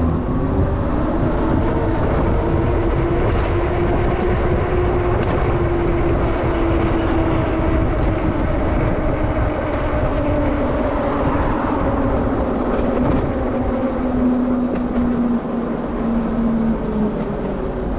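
Denzel Samurai electric bike being ridden: a motor whine that slowly rises and falls in pitch with speed, over steady rumbling wind and road noise.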